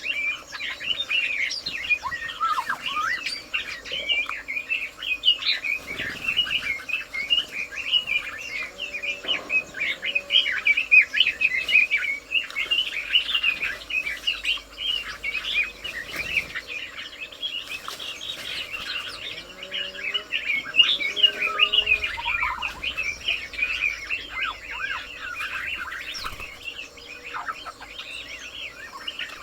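Many small birds chirping and twittering in a dense, continuous chorus, with a few lower, gliding calls from time to time.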